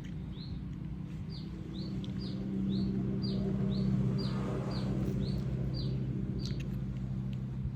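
A bird chirping over and over, short high notes about two a second, which stop about six and a half seconds in. A low steady hum swells and fades underneath.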